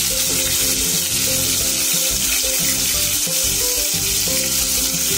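Stuffed pointed gourds (patal) frying in hot mustard oil in a stainless steel pan: a steady sizzle.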